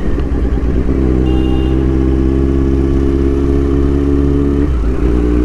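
Kawasaki Z900's inline-four engine running at steady revs, loud and even. About two-thirds of the way through, its note briefly wavers and shifts, like a gear change, before holding steady again.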